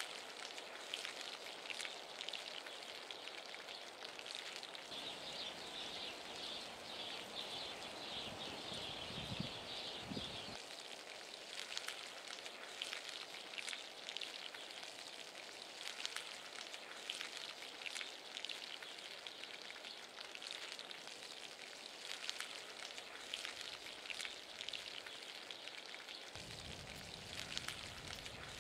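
Chicken pieces frying in hot oil in a pan: a steady crackling sizzle full of small pops. A low rumble joins near the end.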